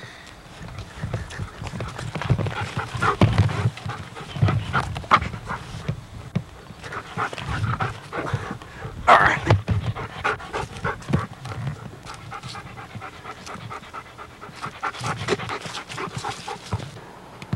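Puppy panting in quick, uneven breaths close to the microphone, with scattered clicks and one brief, louder high-pitched sound about nine seconds in.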